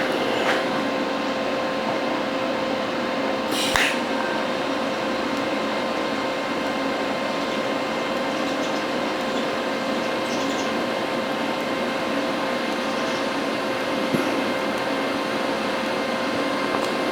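TIG welding arc on stainless steel, burning steadily: an even hiss with a steady high whine, with one short crackle a little under four seconds in.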